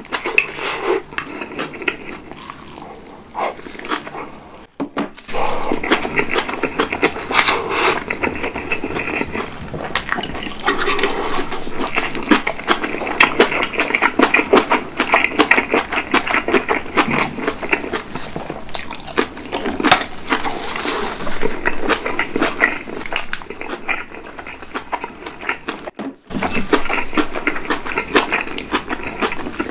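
Close-miked mouth sounds of a person chewing cabbage kimchi and rice, a dense run of small clicks and crunches, broken by two short drop-outs about five seconds in and near the end.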